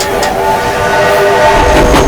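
Train whistle sounding a steady chord of several tones, held for about a second and a half, then a heavy low rumble of the train's running comes in near the end.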